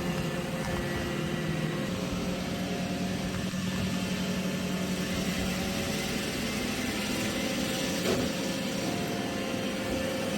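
Roomba i3 robot vacuum running, a steady motor and brush hum with a brief knock about eight seconds in.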